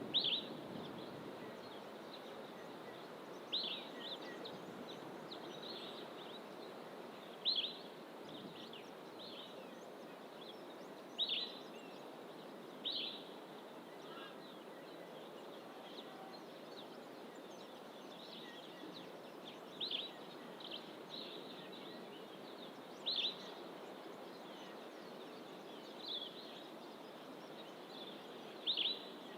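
A bird repeating a short, sharp, high call every few seconds, with fainter bird notes between, over a steady low rushing background.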